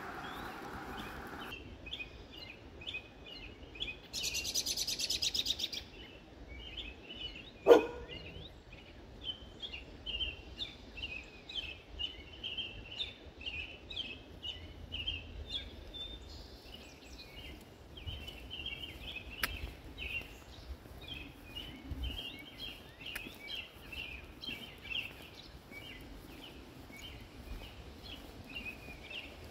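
Songbirds chirping repeatedly in short, high notes throughout. A loud buzzy trill runs for about two seconds around four seconds in. A single sharp knock about eight seconds in is the loudest sound.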